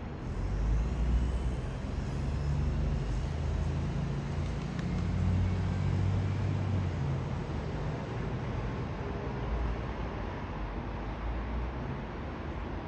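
Road traffic: a low engine rumble and tyre noise of a passing motor vehicle. It comes up sharply at the start, holds for several seconds and eases off toward the end.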